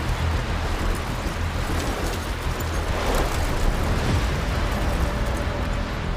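Strong storm wind buffeting a phone's microphone: a loud, steady rumble with a rushing hiss over it.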